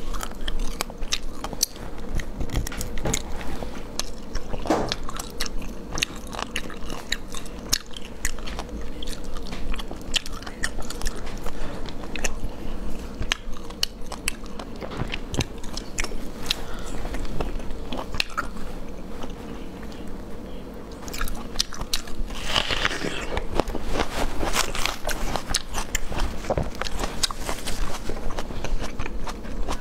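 Close-miked eating of sea snails in sauce: wet chewing and biting with many short, sharp clicks as the meat is worked out of the shells, busier a little past the middle.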